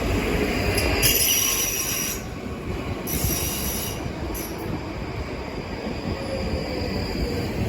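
A train moving through the station with a low rumble, its wheels squealing on the rails in short high-pitched spells about a second in, again near the middle, and once more briefly just after.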